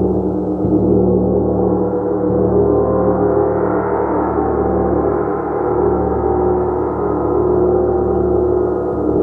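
Gong played continuously, a dense sustained wash of many overlapping ringing tones with no pauses, its brighter upper tones swelling toward the middle and easing off again.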